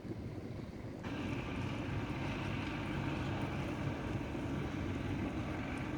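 Tractor engine running steadily as it clears snow from the road, a low drone mixed with wind. The sound steps up a little about a second in.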